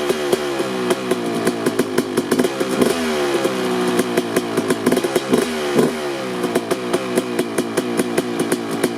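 2003 Kawasaki KX250's single-cylinder two-stroke engine, fitted with an FMF Gnarly pipe and shorty silencer, idling unevenly while warming up from a cold start, with frequent sharp irregular pops from the exhaust. The engine speed wavers, with short throttle blips about three seconds in and again near six seconds.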